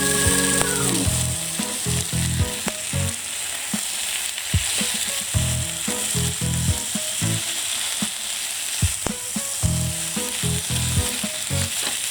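Food sizzling on an iron griddle plate, with frequent clicks and taps of a cooking utensil against the plate as it is turned.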